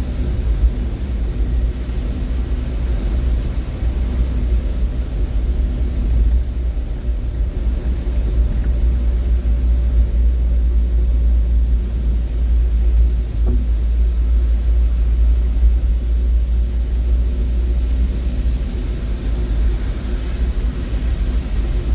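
Steady low rumble of a motor vehicle running, with faint engine tones over it.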